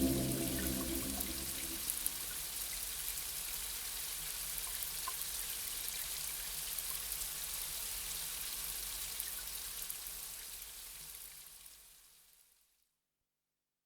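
Gentle rain, a steady soft hiss with scattered small drops, while the low tones of ambient music die away in the first two seconds; the rain fades out near the end.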